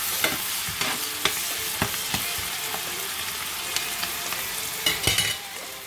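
Chopped onions sizzling in hot oil, with scraping knocks as they are stirred. There is a louder clatter of knocks about five seconds in, after which the sizzle drops a little.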